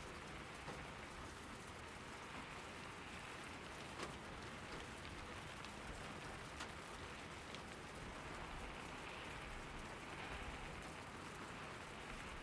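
Steady rain falling, with a few sharper drop impacts standing out, about four and six and a half seconds in.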